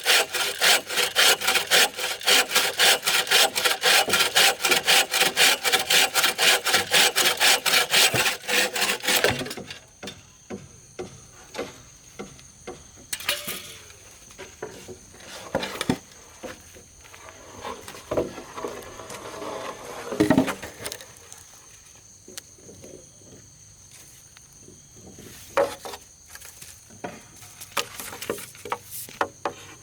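Hand saw cutting through wood with fast, even strokes, which stop about nine seconds in. Scattered knocks and rubs of wood being handled follow, over a faint steady high insect buzz.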